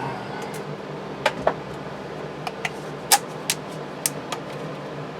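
Irregular sharp clicks and clinks of hand tools and a compression gauge being handled at an engine, about ten in all, over a steady low hum.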